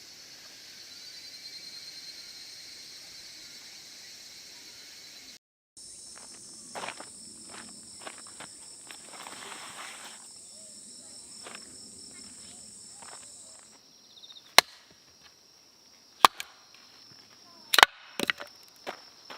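Insects, crickets among them, chirring steadily and high-pitched; the chirring breaks off briefly about five seconds in and resumes in a different tone. Over it come scattered sharp knocks and clicks, the loudest four or five in the last five seconds.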